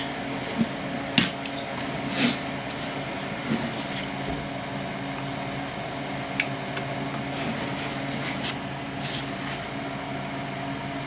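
A few sharp metal clinks of hand tools against the brake caliper as the caliper slide-pin bolt is worked loose, over a steady mechanical hum.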